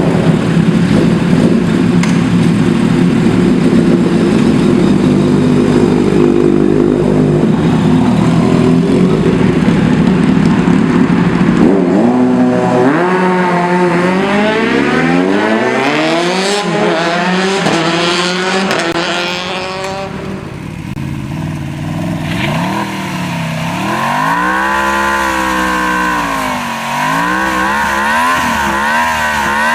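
Sport motorcycle engine through its exhaust, loud: a steady run at first, then hard acceleration through several gears, the pitch climbing and dropping back at each shift. After a brief dip it is revved up and down repeatedly.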